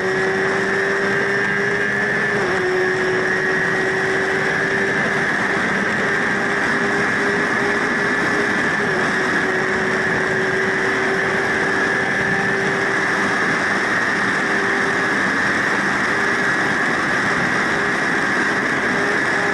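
First-generation Yamaha YZF-R1's 998 cc inline-four engine held at high revs under full throttle, a steady engine note over heavy wind rush on the microphone, with a couple of slight dips in pitch along the way. This is the bike pushed toward its top speed of about 275 km/h and beyond.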